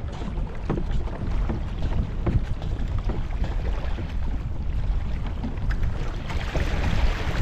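River water running around a kayak, with wind rumbling on the microphone. The water's hiss grows louder near the end.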